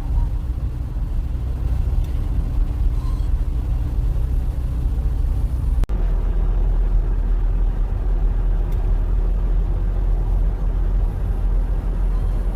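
Steady low rumble of a car's road and engine noise heard from inside the moving car, briefly cut off about six seconds in.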